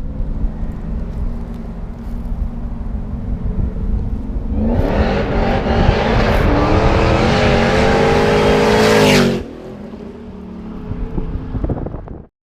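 Supercharged 5.4-litre V8 of a 2002 Ford SVT Lightning, running a 2.6 Kenne Bell supercharger and cams: a low, steady engine note, then about four and a half seconds in a hard, loud pull with the pitch climbing, which cuts off sharply about nine seconds in and drops back to a quieter running note.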